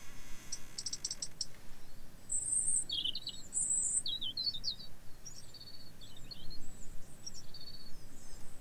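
European robin singing: short, high, thin warbling phrases with whistled notes and quick twitters, starting about two seconds in. A rapid high buzzing trill, like an insect's, sounds for the first second or so.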